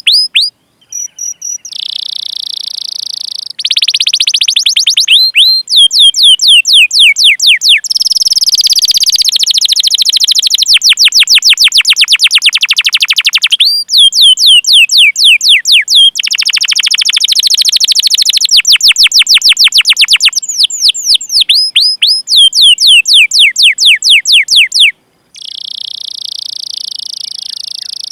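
Domestic canary singing a long master song: series of downward-sweeping 'cuit cuit' chirps several a second, alternating with fast rolling trills and held buzzy notes. The song breaks off briefly near the end, then resumes as a steady held note.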